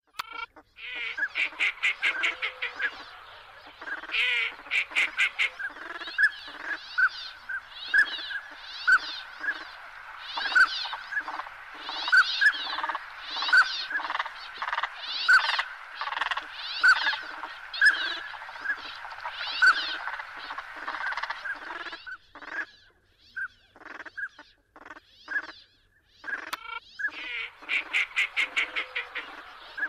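Bulbul calling over and over, short calls about once a second with bursts of fast chattering notes near the start, around four seconds in, and again near the end; the calls thin out after about twenty-two seconds.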